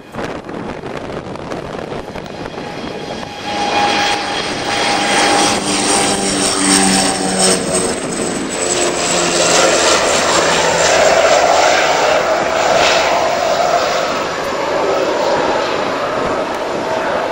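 Fixed-wing aircraft engine passing close by. It gets much louder about three and a half seconds in, and its tones and high whine slide down in pitch as it goes past.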